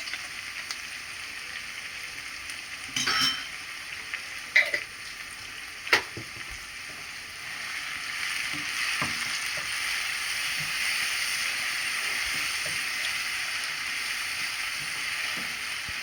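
Onion, cumin and ground garlic sizzling as they fry in oil in a pan, with stirring and a few sharp clinks of a utensil against the pan in the first half. The sizzle grows louder about halfway through.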